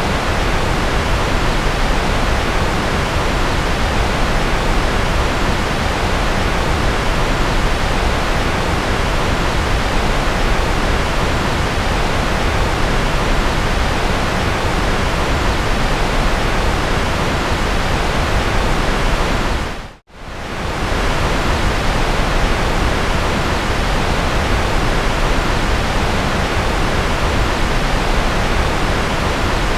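A steady, even noise track of the white-noise kind, fuller in the low end than in the highs. About twenty seconds in it fades out briefly to near silence and comes straight back at the same level.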